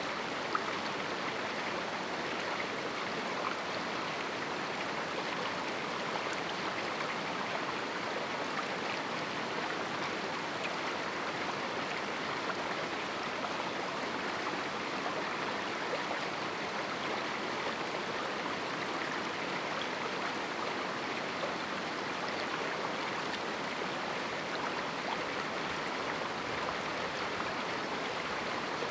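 A small river flowing over rocks in a canyon: a steady rush of running water, even throughout.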